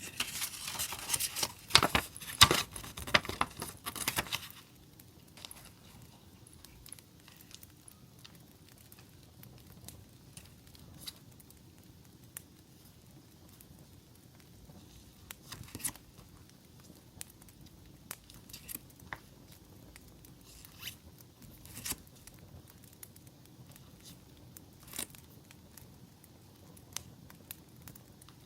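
Paper and plastic sticker packaging rustling and crinkling as it is handled for the first few seconds, then only scattered soft ticks and crackles over a low steady hiss.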